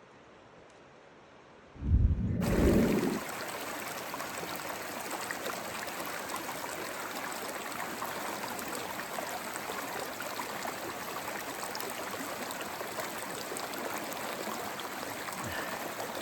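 Steady rush of a mountain creek's flowing water, starting about two seconds in, just after a brief loud low rumbling thump.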